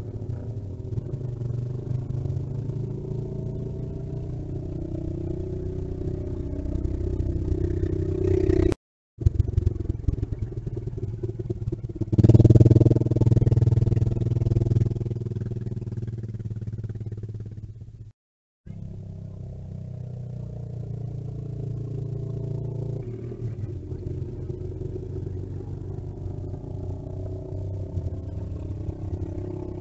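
A motor vehicle engine running, with the pitch and loudness shifting as it moves. Twice it drops out to silence for a moment, and it is loudest a little after the first dropout.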